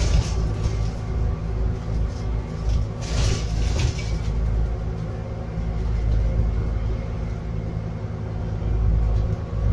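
Scania N280UD biogas-powered double-decker bus under way, heard from inside: a steady low engine drone with road rumble, and a brief hiss about three seconds in.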